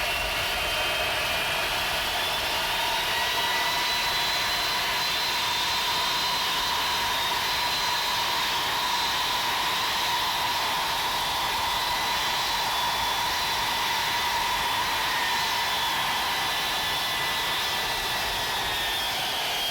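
Boeing 707 CC-137's Pratt & Whitney JT3D turbofans running with a steady rush and a high whine. The whine climbs in pitch over the first few seconds, holds, then drops away near the end.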